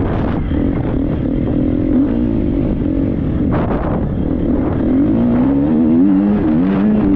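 Triumph 250 motocross bike's single-cylinder four-stroke engine being ridden hard off-road. The revs rise and fall with the throttle, climbing higher near the end.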